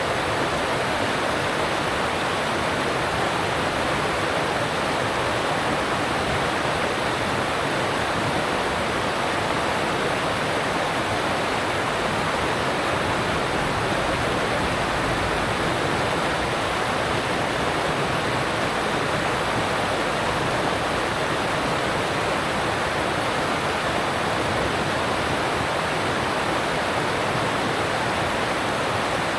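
Alpine stream rushing over rocks: a steady, unbroken rush of water.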